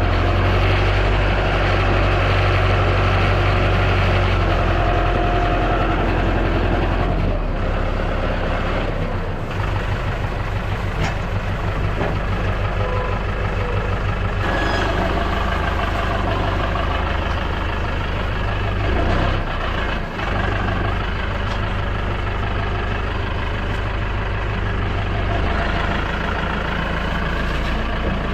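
Tractor engine running steadily, its low note changing about a third of the way through as the engine's speed or load shifts.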